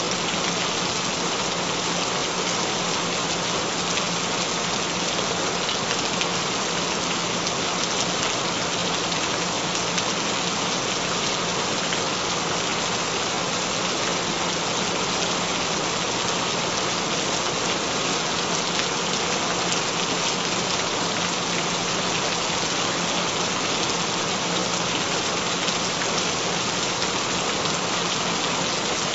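Recorded rain falling steadily, an even hiss of drops with no pauses, over a faint low steady tone.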